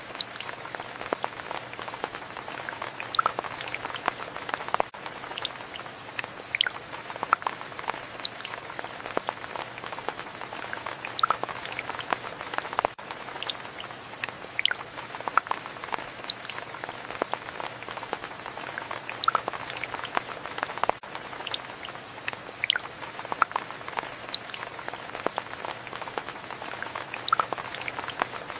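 Rain falling steadily, with many separate drops striking close by at irregular moments.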